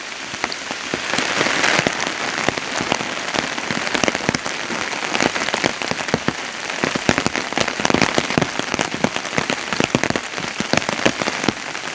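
Steady rain, with many sharp drop hits close to the microphone.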